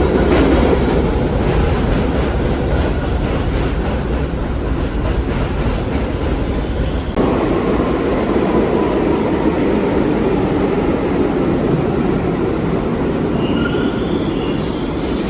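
New York City Subway 1 train running along the track with a steady rumble and occasional clicks over the rail joints. Wheels squeal against the rails, faintly midway and higher-pitched near the end.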